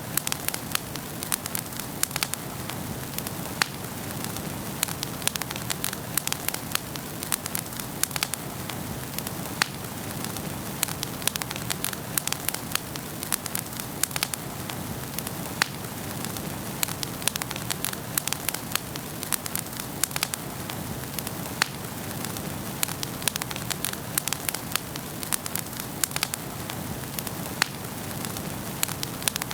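Wood fire burning in a fireplace, crackling and popping steadily over a low rushing hiss, with sharp irregular pops throughout.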